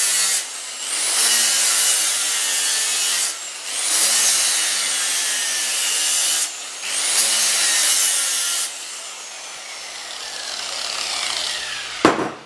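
Power grinder sharpening a steel lawn mower blade: three grinding passes along the edge, broken by short gaps as the disc comes off the metal. Near the end the grinder is switched off and winds down with a falling whine, followed by a sharp knock.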